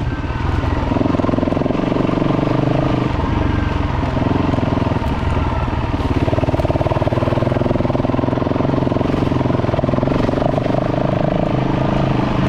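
Dirt bike engine running under changing throttle, its pitch dropping right at the start, then climbing and settling at higher revs about a second in and again around halfway.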